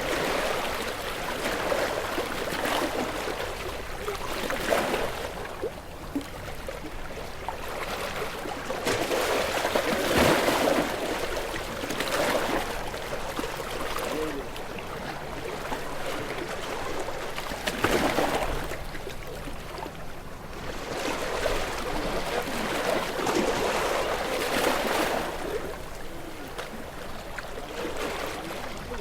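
Ocean waves washing in and drawing back, a continuous rush of water that swells and fades every few seconds, with a few louder surges.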